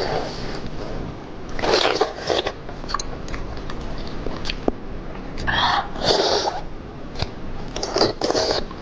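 Close-miked mouth sounds of a person biting and chewing octopus: wet, noisy bursts about two, six and eight seconds in, with small clicks between.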